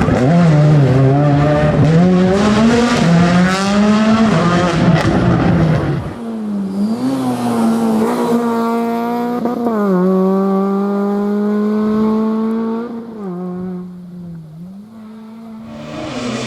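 Rally car engine revving hard on a stage, its pitch climbing and dropping again and again as it accelerates and changes gear. It is loudest for the first six seconds, then grows fainter as the car moves off, and the sound of an engine rises again near the end.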